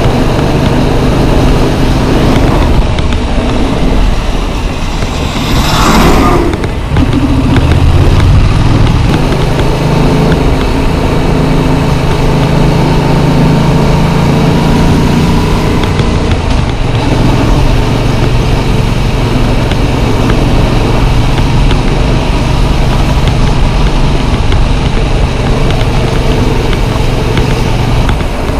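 Yamaha MT-07's parallel-twin engine running at steady road speed under a constant hiss of wind, with the engine note dipping briefly about four seconds in and a short loud whoosh about six seconds in.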